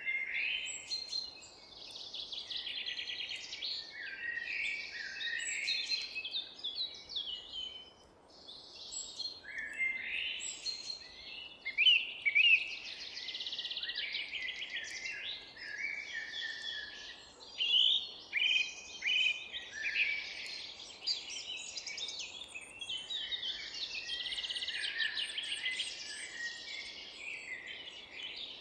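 Many songbirds singing at once in a dense, unbroken chorus of chirps, trills and whistled notes, over a faint steady background hiss. There is a brief lull about eight seconds in, and a few loud sharp calls soon after.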